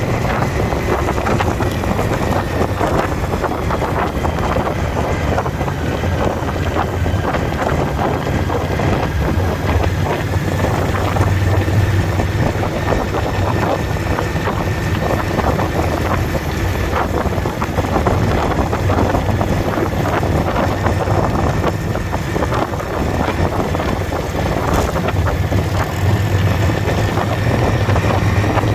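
Indian motorcycle's V-twin engine running steadily under way, with heavy wind noise on the microphone.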